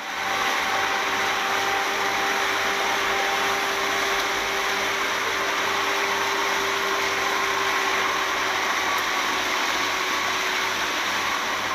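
A fishing speedboat running under way: a steady rush of wind and water over a faint, even engine hum, starting abruptly.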